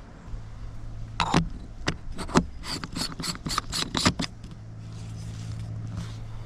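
Staresso Discovery 2 electric coffee grinder's aluminium body being put together by hand: the top clicked into its lock and the bottom screwed back on, giving a quick run of clicks and scrapes of metal parts and threads.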